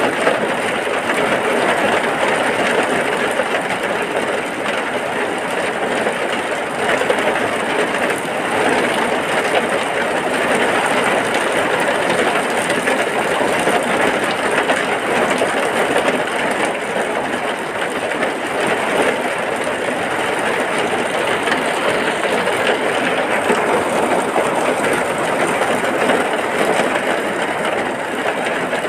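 Heavy rain falling steadily, an even, unbroken rush of sound.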